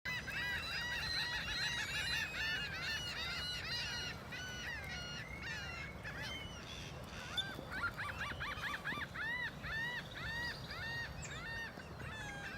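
A chorus of many birds calling at once: dense, overlapping, rapidly repeated call notes that thin out around the middle and pick up again a couple of seconds later.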